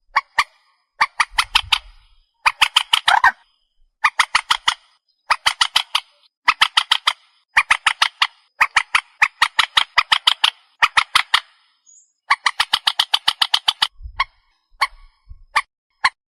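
A swamphen (Vietnamese 'trích ré') calling in repeated phrases of rapid, harsh, rattling notes, each phrase lasting about a second with short pauses between. In the last couple of seconds the calls thin out to a few single notes. It is a recorded call of the kind played to lure the birds.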